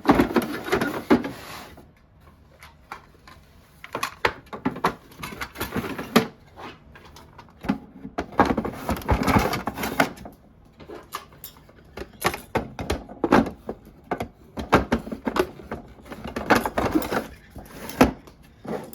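Handling of small items and plastic storage cases: repeated light clicks and knocks, with stretches of rustling.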